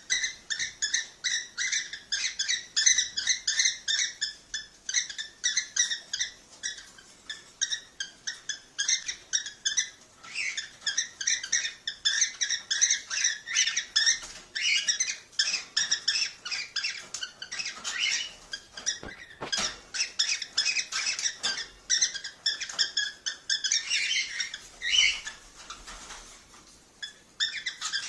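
Cockatiels chirping and chattering in a rapid, continuous stream of short high calls, easing off briefly near the end.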